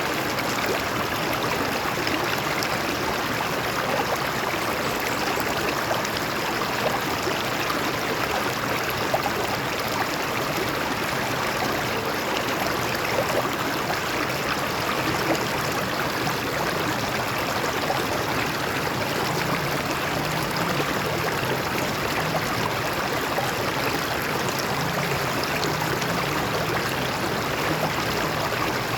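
Shallow stream flowing steadily over rocks, with small splashes and trickles.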